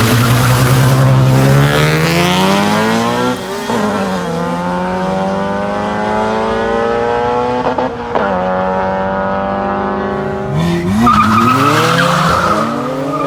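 Cars racing under hard acceleration, engine pitch climbing through the gears with upshifts about three and a half and eight seconds in. Near the end a high steady squeal comes in and the cars pass by, their pitch sweeping down.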